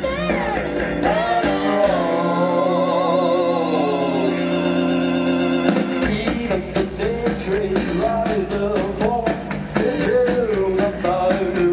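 Rock band with a sung vocal: about two seconds in, the bass and drums drop out under a long wavering vocal note and sustained chords. About six seconds in, the full band comes back in with a steady drum beat.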